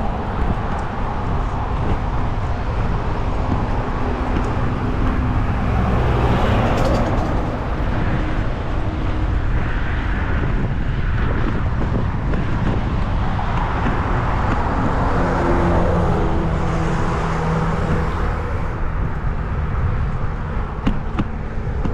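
Road traffic noise, with cars running by, heard from a moving bicycle as a steady rumble.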